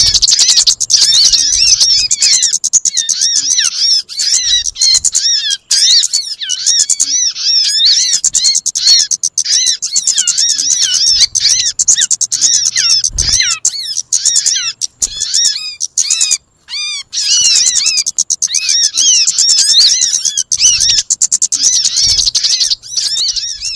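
Small songbirds twittering in a dense, fast stream of high chirps that quickly rise and fall in pitch. It is a recorded lure call of the kind bird catchers play to draw birds in, with brief pauses about two-thirds of the way through.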